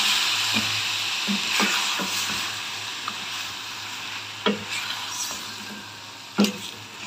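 Mutton curry with tomatoes and yogurt sizzling in a stainless steel pot while a wooden spatula stirs it, with a few knocks of the spatula against the pot. The sizzle slowly dies down.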